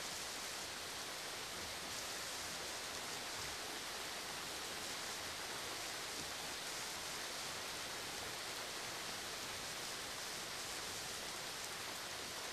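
Steady rain falling, an even hiss of many drops at a constant level with no thunder.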